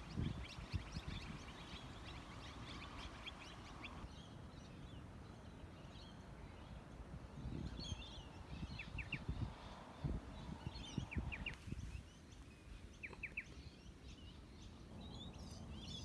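Small birds chirping and calling, with bursts of quick repeated high notes, over an uneven low rumble on the microphone.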